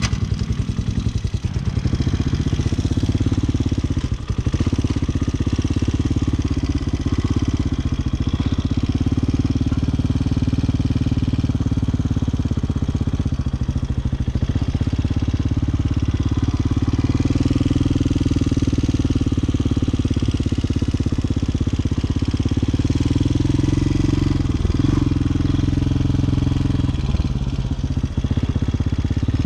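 Hawk 250 motorcycle engine running at low speed, its pitch rising and falling gently with the throttle, with brief dips a few times as the throttle is closed.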